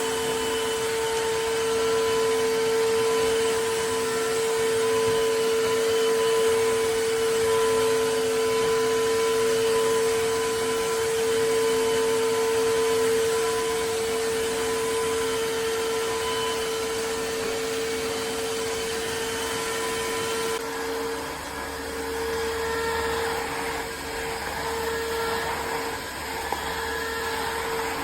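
Tineco cordless wet-dry vacuum mop running: a steady motor sound with a strong fixed tone that starts abruptly. About twenty seconds in, the sound shifts, with less hiss and a low rumble added.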